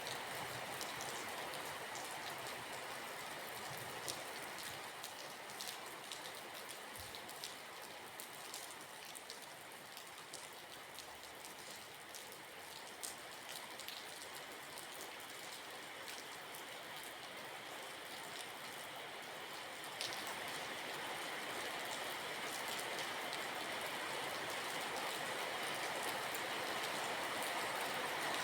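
Steady rain with individual drops pattering on a surface, many small ticks over an even hiss; it eases a little partway through and builds again toward the end.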